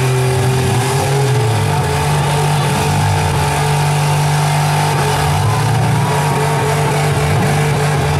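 Engines of wrecked demolition derby cars revving hard and held at high revs while the cars stay locked together, a loud, steady engine note with no breaks.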